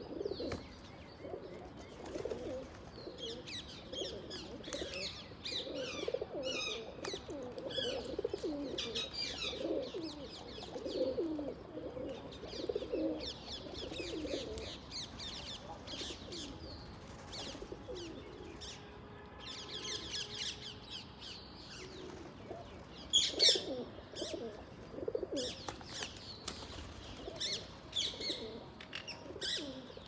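Birds calling: many short, low, wavering notes repeat under scattered higher chirps. The chirps are loudest about 23 seconds in.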